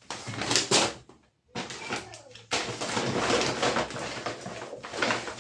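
Rustling and handling noises of packaged groceries being picked up and set down, with small knocks, cut off briefly about a second in and resuming.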